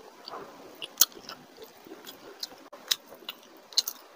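Close-miked chewing and biting of a handful of rice and curry, with sharp mouth clicks about a second in, near three seconds and again near four seconds, the first the loudest.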